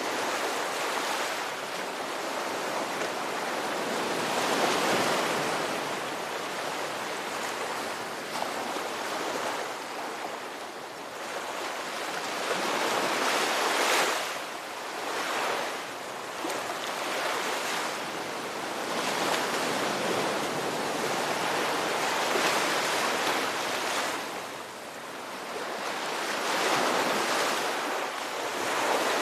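Ocean waves breaking and washing on a shore, a continuous surf noise that swells and eases every few seconds.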